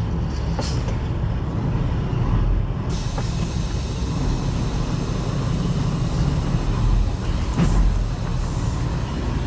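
Semi truck's diesel engine running low and steady, heard from inside the cab, with a few faint knocks. About three seconds in, a steady high hiss starts and stays.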